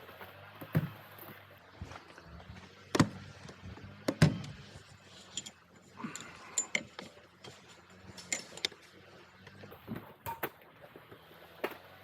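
Irregular knocks, clicks and light rattles of camping gear being handled and set down, with the sharpest knocks about three and four seconds in.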